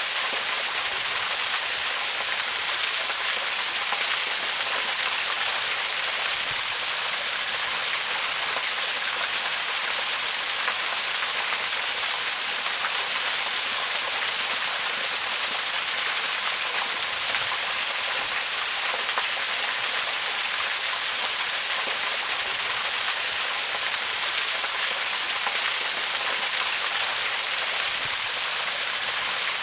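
Waterfall: a steady, even rush of falling water, its hiss sitting mostly in the high range with little low rumble.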